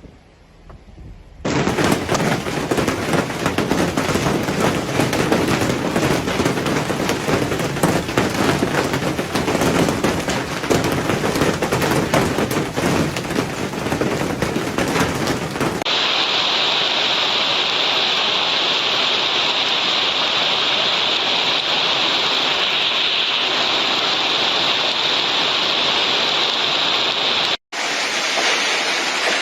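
Hailstones pelting hard surfaces in a dense, rapid rattle of impacts. About halfway through this changes abruptly to a steady, hissing downpour of hail and rain.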